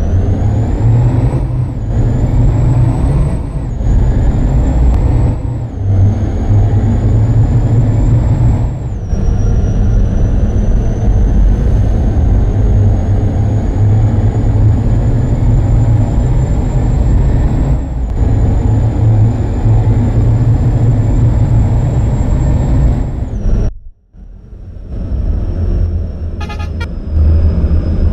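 Truck engine pulling through the gears. A high whine climbs with engine speed and drops sharply at each of several quick gear changes, then rises slowly and steadily in a long pull. Near the end the sound briefly cuts out and returns quieter.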